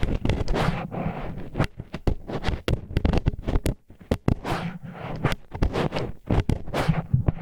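Disposable wooden chopsticks used as an ear pick, scraping and rubbing against a microphone's ear wall: an irregular run of gritty scrapes broken by many sharp clicks.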